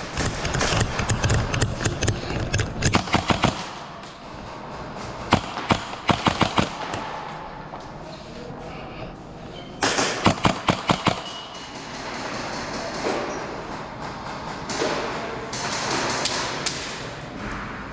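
Airsoft guns firing in three short rapid bursts of sharp cracks, about a second apart in each string, with a noisy rustle in between.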